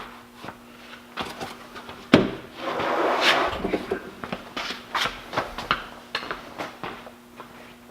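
Wooden workbench being shoved and dragged across the floor: rough scraping with a series of knocks and clunks, the sharpest about two seconds in.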